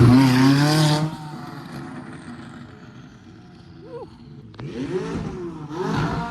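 Car engine revving hard, dropping off sharply about a second in, followed near the end by two shorter rev blips that rise and fall in pitch.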